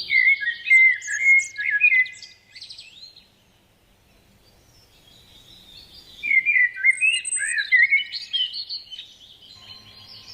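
A songbird singing in two bouts of quick, warbling phrases. The first runs for the opening three seconds, and the second starts about six seconds in, with a quiet pause between.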